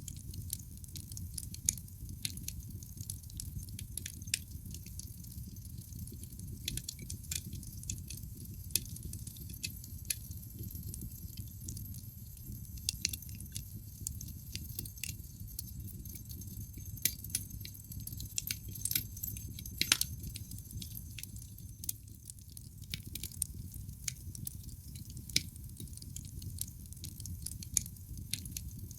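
Wood fire crackling in a fireplace: irregular sharp pops and snaps from the burning logs over a steady low rumble, with one louder pop about twenty seconds in.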